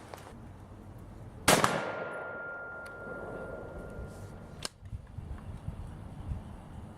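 A single shot from a 300 AAC Blackout AR-15 short-barreled rifle, about a second and a half in, with a long echo dying away. A faint steady ring lasts about three seconds after the shot, and a sharp click comes near the end.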